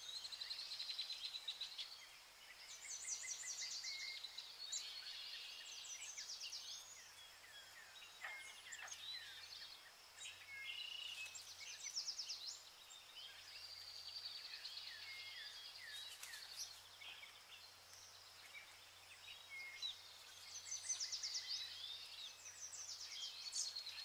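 Small birds chirping and trilling, many short high calls overlapping without a break, over a faint low hum.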